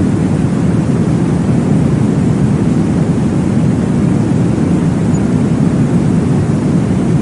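A steady, deep whooshing noise of the kind used as womb sound or white noise for baby sleep, weighted heavily to the low end, with no clear beat.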